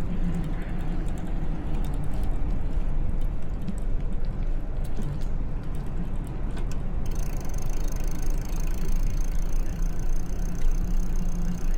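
Wind rumbling on the microphone and tyre and road noise from a moving bicycle, with small rattles and clicks. About seven seconds in a faint high steady hiss with a thin whine joins.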